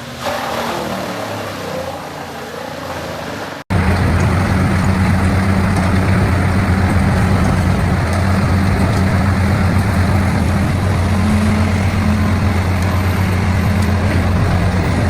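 Heavy wood-processing machine sounds: a quieter, noisy chipping sound, then an abrupt cut about three and a half seconds in to the loud, steady drone of a large diesel engine running under load.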